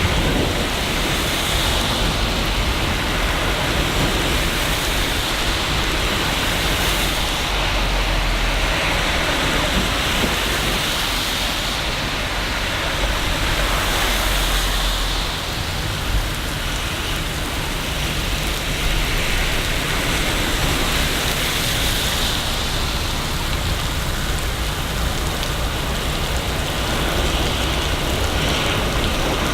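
Steady heavy rain falling in a city, a continuous hiss that swells and eases slowly, with a deep low rumble underneath that grows stronger about a third of the way in and fades after the middle.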